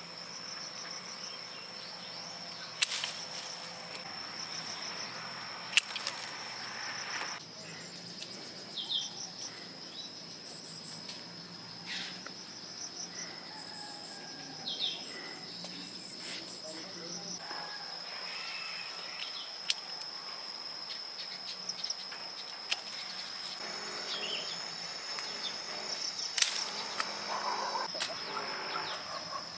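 Insects giving a steady, high continuous drone, with a few sharp knocks scattered through and a few short bird chirps.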